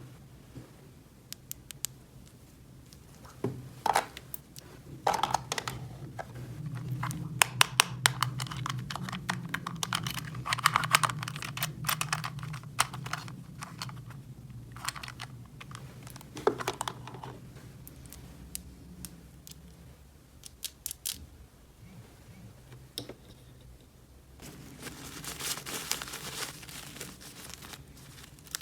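Small plastic toy pieces and packaging being handled: many quick clicks and taps, with crinkling and tearing of plastic wrap near the end.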